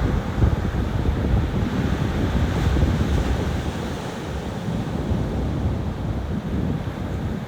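Ocean surf washing onto a beach, a steady hiss that swells slightly about a third of the way in. Wind buffets the microphone with a gusty low rumble.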